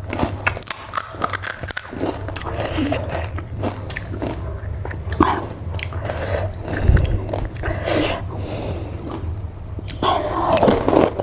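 Pani puri being eaten: crisp puri shells crunching between the teeth and being chewed, in irregular crackly bites.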